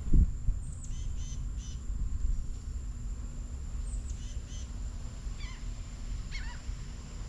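Small birds calling: a high, down-slurred note followed by a few quick chips, heard twice, then two short descending calls. Under them runs a steady low rumble, and there is a thump right at the start.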